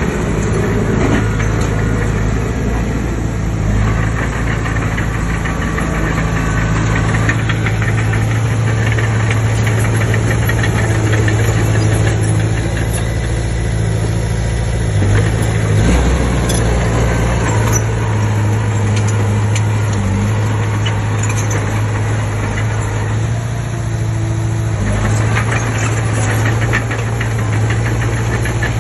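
Komatsu D20P bulldozer's diesel engine running steadily at work, with a steady low hum that shifts in pitch a few times as the load changes. Stretches of clatter come and go on top, near the start, in the middle and near the end.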